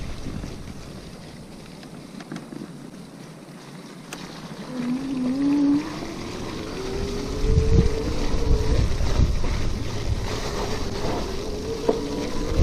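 Wind buffeting the microphone on a moving RadMini electric bike. The wind drops away for a few seconds, then builds again from about halfway through as the bike picks up speed. A thin whine climbs slowly in pitch along with it.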